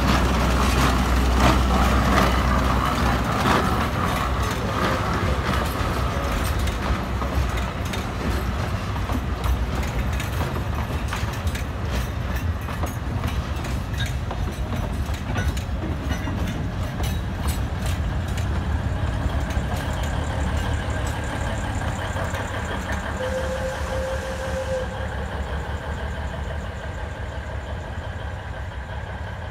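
Alishan Forest Railway train rolling close past: a dense run of clicks from the coach wheels over the rail joints, then the steady running of a diesel locomotive as the train moves off, fading.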